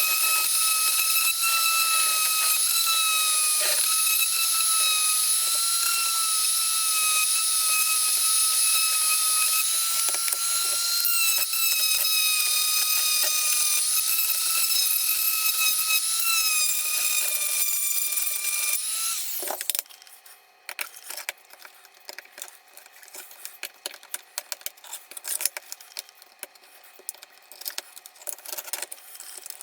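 Small high-speed power tool running with a steady high whine whose pitch wavers slightly. It stops about twenty seconds in, and a scatter of light clicks and taps follows.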